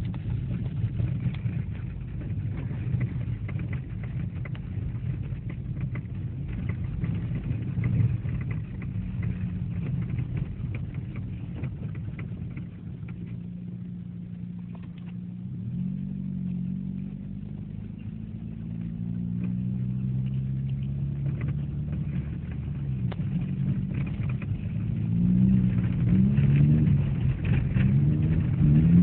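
Car engine heard from inside the cabin while driving on snow, its note rising and falling with the throttle, with repeated rising revs near the end.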